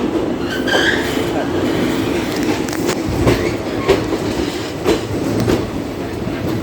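Passenger train running with a steady rumble; its wheels clack over rail joints about once a second.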